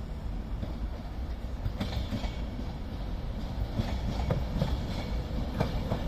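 Class 390 Pendolino electric train running into the platform: a low rumble that grows louder, with the wheels clicking over rail joints.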